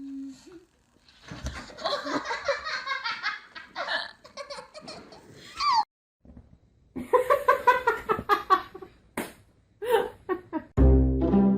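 People laughing hard, in two long stretches of pulsing laughter with a short break between them. Music comes in near the end.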